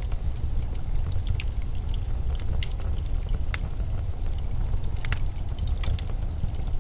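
Steady low rumble of blizzard wind, with scattered faint ticks at irregular moments.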